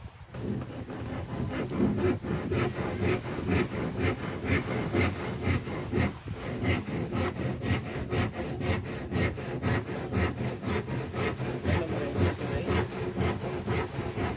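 Hand-sawing wood for a boat repair: quick, even strokes of the saw, about three to four a second.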